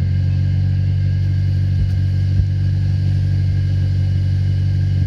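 1991 Toyota Corolla EE90's 4E-FE four-cylinder engine running steadily through an HKS muffler with 3-inch piping, a loud, low exhaust note that holds one pitch.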